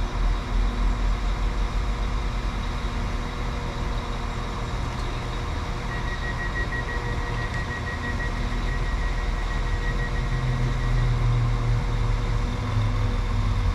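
Diesel train engine running steadily with a low rumble, and a thin high whine that holds for about five seconds from the middle.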